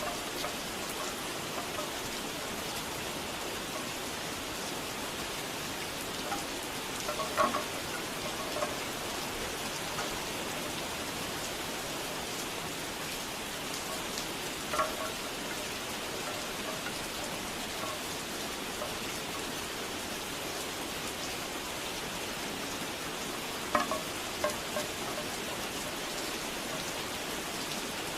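Steady rain falling, with bamboo wind chimes knocking together in a few short clusters spaced several seconds apart.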